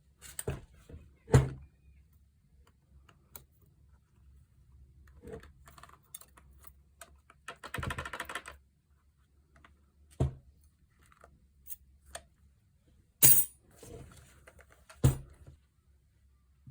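Irregular clicks and knocks of tools and saw parts being handled during disassembly, with a short rattle about 8 seconds in and sharper knocks near the end.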